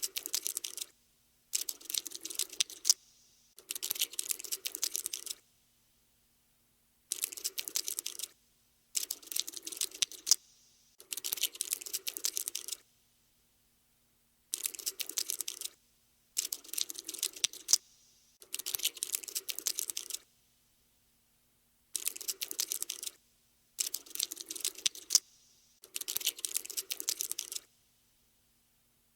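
Cockroach scuttling sound effect: bursts of rapid, dry clicking and skittering, each about a second long. They come mostly in threes, with short pauses between the groups, about a dozen bursts in all.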